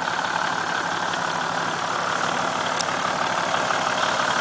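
Toyota Land Cruiser engine idling steadily.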